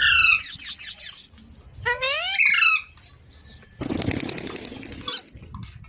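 Indian ringneck parrot giving two loud bursts of harsh, pitch-sliding squawks, one at the start and one about two seconds in, followed by a brief noisy rustle about four seconds in.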